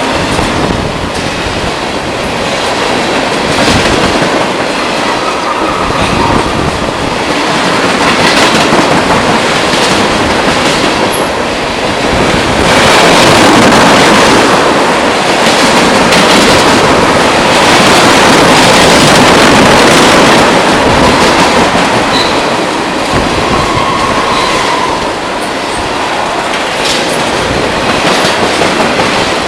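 Train cars rolling past close by with a steady rumble and clickety-clack from the wheels over the rail joints, with a faint wheel squeal twice. It is loudest through the middle.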